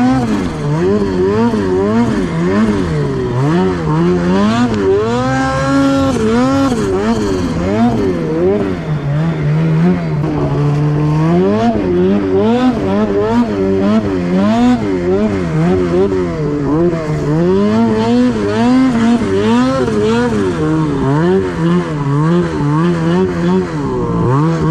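Turbocharged engine revving up and down over and over, its pitch rising and falling about once a second, with a longer climb to high revs about five seconds in and a steadier low stretch around ten seconds in.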